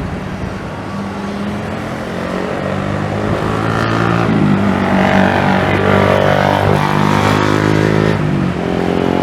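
Jet airliner engines running, a steady mix of several tones and rushing noise that grows louder over the first few seconds and then holds.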